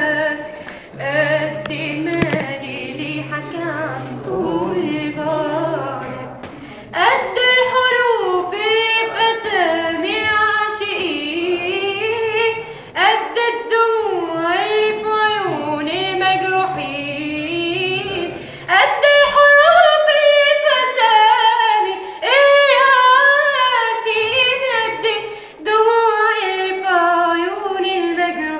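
A girl singing an Arabic song in long, ornamented phrases with sliding pitch, over light accompaniment.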